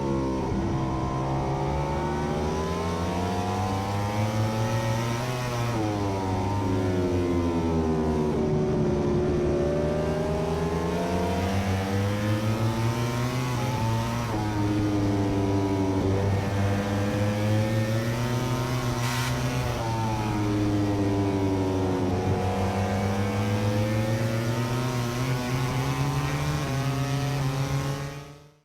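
MotoGP racing motorcycle engine at high revs, its pitch rising and falling every few seconds as the rider accelerates and backs off. The sound cuts off suddenly near the end.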